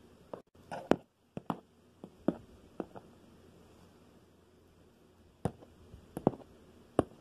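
Plastic toy horse figures being handled and set down on a hard surface: a scattering of sharp, irregular taps, about eight in all, with quiet gaps between.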